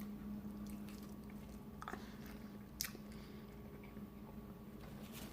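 A person chewing food with soft, faint mouth sounds and a few small clicks, one sharper just under three seconds in, over a steady low hum.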